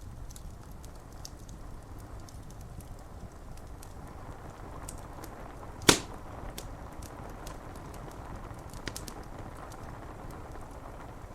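Wood fire crackling with scattered small snaps and one loud sharp pop about six seconds in, over a steady hiss of rain.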